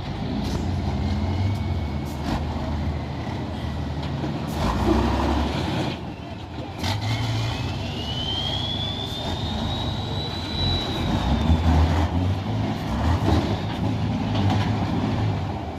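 Tatra truck-trial truck's diesel engine running and revving under load, with a high whine that climbs and then fades away in the middle.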